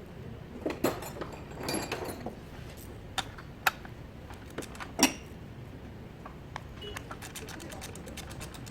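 Metal tools and parts clinking and knocking as they are handled during engine work. From about seven and a half seconds in, a fast, even ticking starts, like a ratchet being worked.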